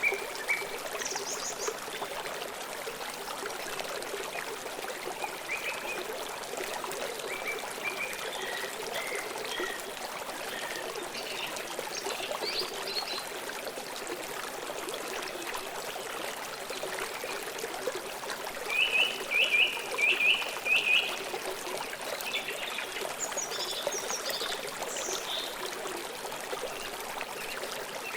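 A river flowing steadily, with birds chirping now and then over it; about two-thirds of the way through, a bird gives a loud run of quick repeated chirps, and higher notes follow.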